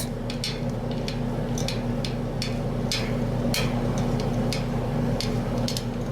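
Stainless steel nut and bolt being handled and threaded on by hand: light, irregular clicks and taps of metal, over a steady low hum.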